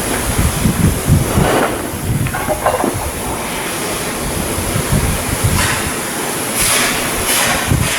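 Heavy industrial rumble with irregular knocks and clanks, and a few short hissing bursts about two seconds in and near the end.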